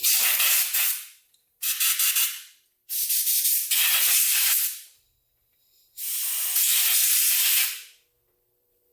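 Four bursts of pressurised spray hissing as a 1995 Kawasaki KX250's disassembled carburetor and its jets are blown and sprayed clean, each burst lasting one to two seconds with short pauses between.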